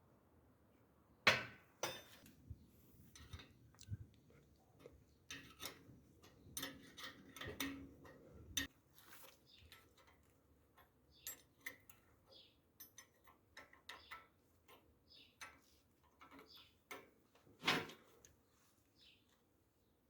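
Irregular light clicks and knocks, with two louder knocks about a second in and near the end, and a few short high chirps in the second half.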